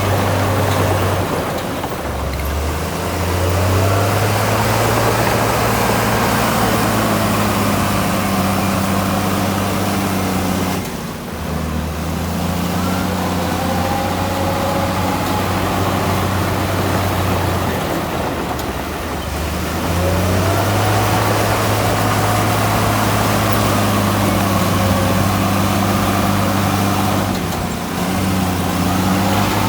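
Heavy diesel earthmoving machine working, its low engine note dropping and rising again every several seconds as the load changes, with faint high squeals over it.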